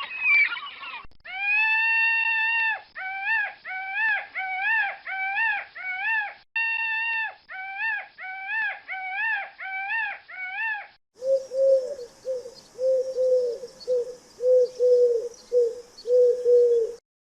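Bird calls. First a long pitched call, then a fast series of short repeated calls that bend up and down. About eleven seconds in, a different, lower call takes over, repeated about twice a second like cooing.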